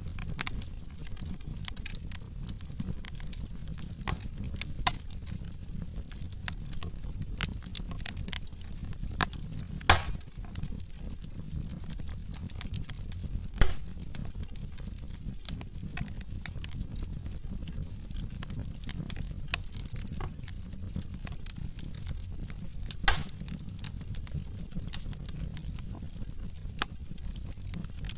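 Wood logs burning in a fireplace: a steady low rumble of flames with frequent sharp crackles and a few louder pops, about ten seconds in, near fourteen seconds and near twenty-three seconds.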